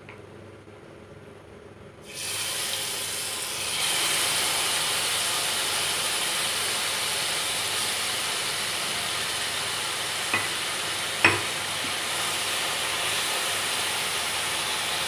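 Mashed hog plum pulp sizzling in hot mustard oil in a non-stick frying pan while it is stirred with a wooden spatula. A loud, steady hiss starts suddenly about two seconds in after a quiet start, and the spatula knocks sharply on the pan twice a little past the middle.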